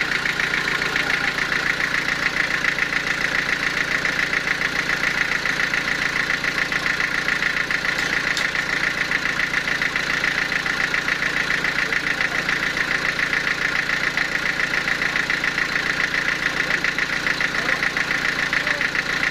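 Sawmill machinery running steadily: an engine-like drone with a fast, even pulse that holds the same level throughout.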